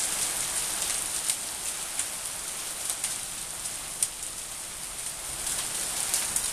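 Steady rain falling, a constant hiss with scattered louder drips landing.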